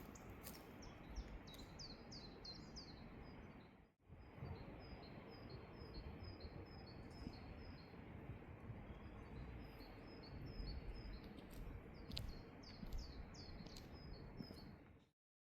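A small bird singing faintly, short repeated chirping notes in quick runs, over low steady outdoor background noise. The sound drops out for a moment about four seconds in and stops just before the end.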